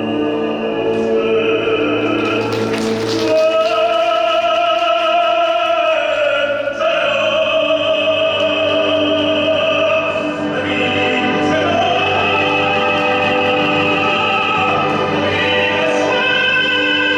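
Operatic music: a singer holding long notes with vibrato over classical orchestral accompaniment. A brief burst of noise comes about two to three seconds in.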